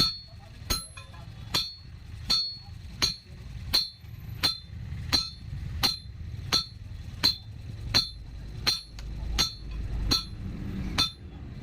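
Hammer blows on a steel rod on an anvil, forging it into a peg, in a steady rhythm of about three strikes every two seconds, each with a short metallic ring.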